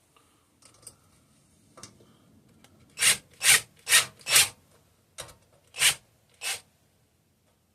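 Hands rubbed together to warm cold fingers: a run of short rubbing strokes, four quick ones about two a second, then three slower ones.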